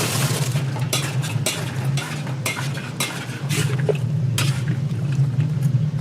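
Metal utensil stirring chicken in a large pan, with repeated scrapes and clatters over a steady low hum and a brief hiss at the start.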